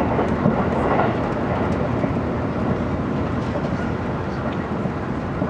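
Steady running noise of an E257 series electric limited express train, heard from inside the passenger car: the even rumble of wheels on the rails and the train moving along.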